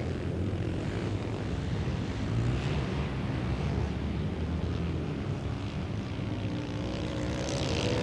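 A pack of flat-track race engines droning together at a distance as they circle the dirt track. Near the end the engine note grows louder and clearer as they come closer.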